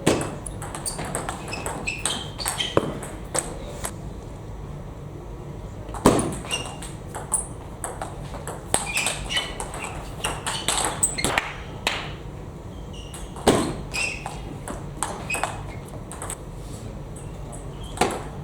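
Table tennis balls clicking off bats and tables in rallies, a quick irregular run of sharp ticks with short pinging rings, with a few louder hits about six seconds apart.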